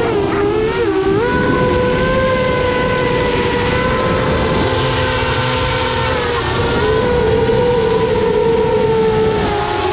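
A 7-inch FPV quadcopter's four EMAX ECO II 2806 1500kv brushless motors and propellers whining in flight, heard from the onboard camera over a haze of rushing air. The pitch dips and wavers briefly about a second in and again around six and a half seconds, and holds fairly steady in between.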